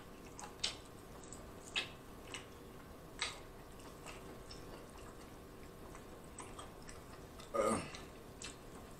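Faint eating sounds: scattered wet mouth clicks and smacks from chewing and tearing apart sauced barbecue pork ribs by hand, with one longer, louder wet smack about three-quarters of the way through.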